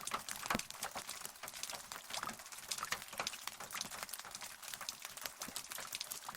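Rain falling, heard as a dense, irregular pattering of individual drops tapping on a surface.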